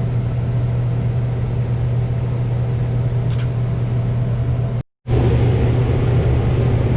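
Combine harvester running steadily at harvest work, heard from inside the cab: a constant low engine and machinery drone. It cuts out completely for a moment about five seconds in, then comes back the same.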